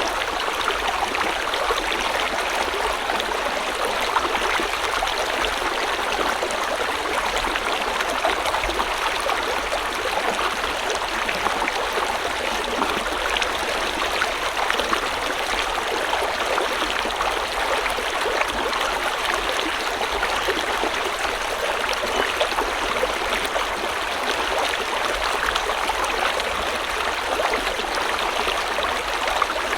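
A river flowing over rocks: a steady, even rush of moving water with fine splashing and trickling, unchanging throughout.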